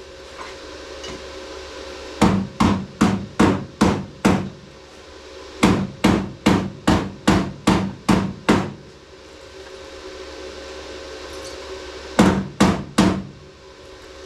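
Hammer striking metal in quick, even runs of about two to three blows a second: about six blows, a short pause, about nine more, then three more near the end. Each blow is sharp and rings briefly, over a faint steady hum.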